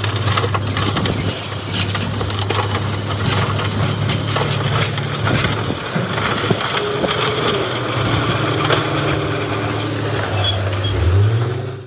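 Heavy earthmoving machine's diesel engine running steadily under scattered crunching and clattering. The engine pitch rises sharply just before the end.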